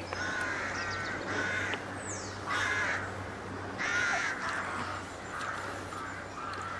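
Birds calling outdoors: a series of harsh calls, about one every second, with one brief high falling whistle about two seconds in.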